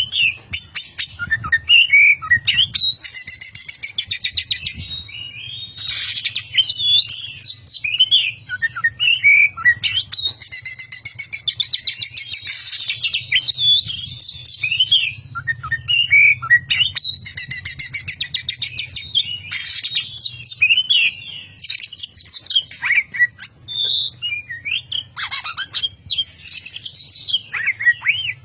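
Oriental magpie-robin (kacer) singing a long, varied song. Slurred whistled notes alternate with several bouts of fast rattling chatter, the mimicry of a lovebird's ngekek and a pied triller (kapas tembak) that the bird is kept for.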